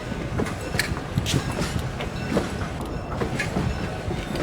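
A train rolling by with a steady rumble and irregular metallic clanks and knocks from its wheels and cars.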